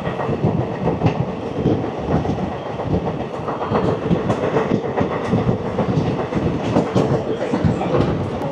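Passenger train running, heard from an open coach window: wheels clattering and clicking on the rails over a steady running rumble, with a faint steady hum.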